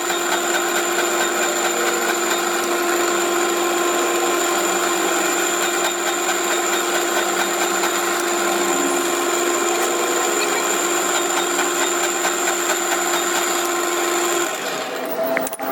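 An electric power tool running steadily at a constant speed, then switched off near the end, followed by a couple of sharp clicks.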